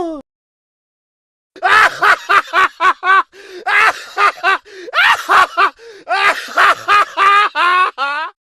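A high-pitched giggling laugh sound effect: a long run of short, quick laugh syllables, starting about a second and a half in.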